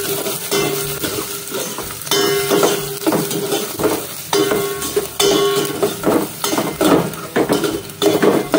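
Sliced garlic and ginger sizzling in hot oil in a stainless steel pot, while a metal spoon stirs and scrapes against the pot in repeated strokes.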